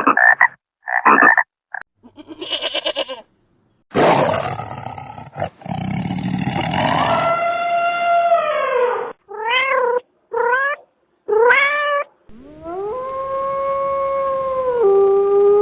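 A run of different animal calls: a harsh roar, then a falling cat meow and three short rising meows, then a long steady lowing call like a cow's moo starting near the end.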